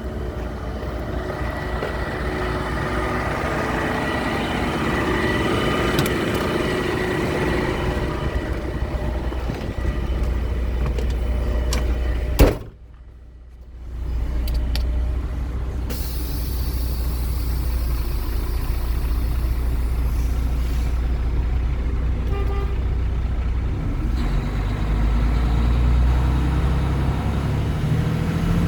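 Western Star W4700 hydro vac truck's diesel engine running steadily. About halfway through there is a sharp click and the sound drops away for a second or so before the running resumes.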